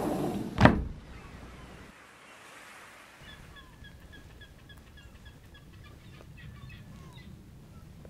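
The tail of background music, then one loud thump just under a second in. After that faint outdoor ambience with a low rumble, and from about three seconds in a bird calling in a quick run of short, high, evenly spaced notes, about four a second, for some four seconds.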